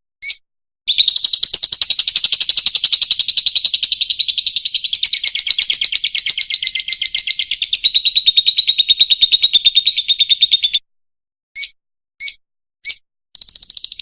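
Fischer's lovebird singing: a long, very fast run of high chattering notes lasting about ten seconds, then three short separate chirps, and a new fast chatter starting just before the end.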